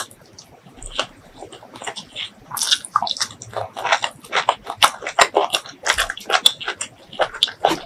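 Close-miked wet chewing of a mouthful of beef tripe curry and rice: a run of short squelchy mouth clicks and smacks that becomes denser after about two and a half seconds.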